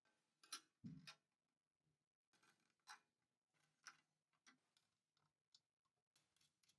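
Faint, irregular clicks and light taps, about a dozen spread unevenly, with a dull knock about a second in.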